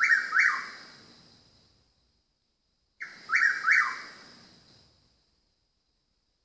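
A bird calling at night, giving the same short phrase twice about three seconds apart: a quick run of three chirpy notes, the last two sliding up and then down, each phrase trailing off in an echo. The recorder wonders whether it is a northern mockingbird.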